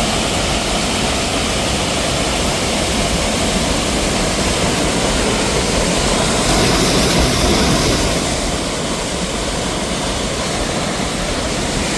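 Steady loud rush of a waterfall, an unbroken roar of falling water that swells a little about seven seconds in.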